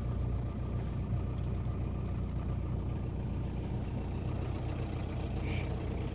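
Safari vehicle's engine running steadily at idle, a low even hum.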